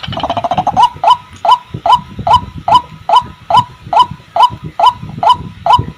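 White-breasted waterhen calling: a fast chattering run of notes in the first second, then a loud hooked call note repeated steadily about two and a half times a second.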